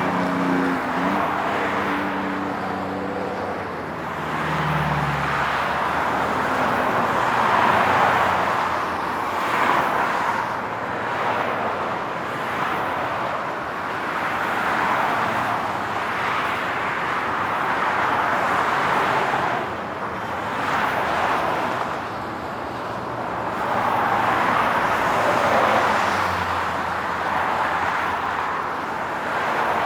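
Highway traffic: a continuous stream of vehicles, tyre and engine noise swelling and fading as they pass, with a low engine hum near the start.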